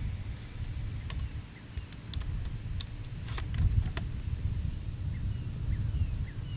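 Wind buffeting the microphone as a steady low rumble, with a few light clicks between about one and four seconds in and faint short chirps in the second half.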